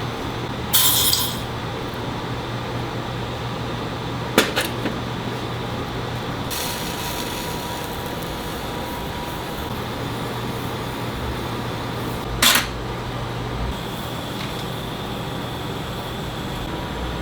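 A few brief, sharp metallic clinks of small jeweller's tools and metal pieces on the bench, over a steady low hum.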